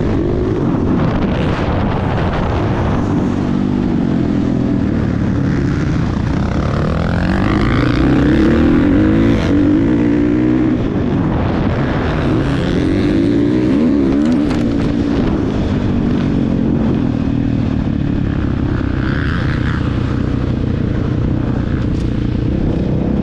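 Motocross bike engine running hard, its pitch rising and falling again and again as the throttle is opened and closed.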